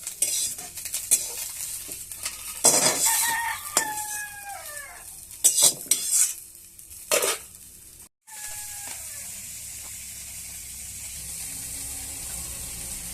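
Small fish frying in oil, with a spatula clattering and scraping against the pan over the sizzle. A rooster crows twice. After a short break, a steady sizzle of frying runs on.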